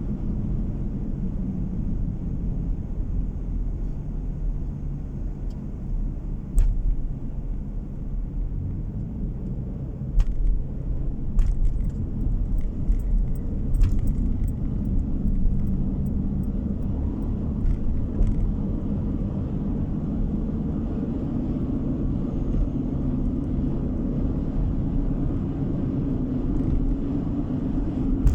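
A car being driven, heard from inside the cabin: a steady low rumble of road and engine noise. A few short knocks or rattles come through about a third of the way in.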